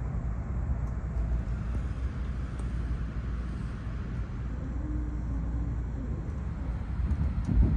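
Shinkansen bullet train heard from inside the passenger cabin: a steady low rumble of running noise.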